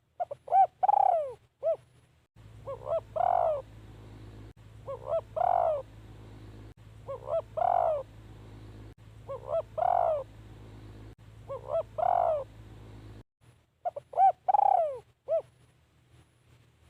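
Spotted dove cooing its phrase over and over: a few short coos then one longer, arching coo, about every two seconds, seven times. A low hum sits under the middle phrases.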